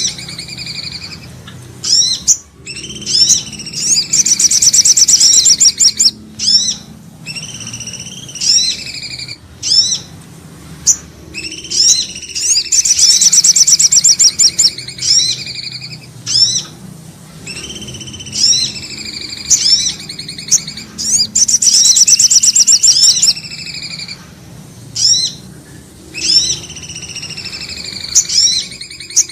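Bird-lure recording of common iora (cipoh) and little spiderhunter (sogok ontong) calls: high chirps and sliding whistled notes, broken by a rapid high trill that comes back about every eight or nine seconds in a repeating loop.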